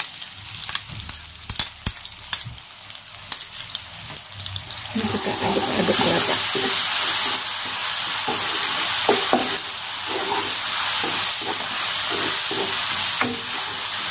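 Ground spice paste of shallot, garlic and chilli is scraped off a plate with a spoon into hot oil and onions in a non-stick wok, with a few sharp clicks at first. About five seconds in, the paste starts sizzling loudly as it fries, while a wooden spatula stirs it against the pan in quick repeated strokes.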